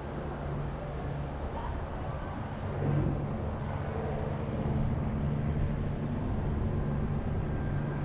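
City street traffic: a steady low engine hum over a wash of traffic noise, swelling slightly about three seconds in.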